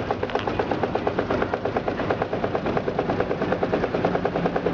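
Washing machine running with a fast, even rattle of knocks as its tub shakes on its suspension. The machine leans to one side, and its suspension rods are rusted.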